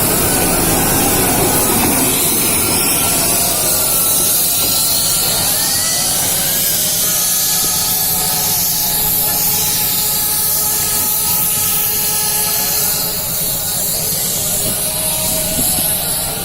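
Local passenger train running, a steady rumble under a loud hiss, with a few faint high tones held over it in the middle.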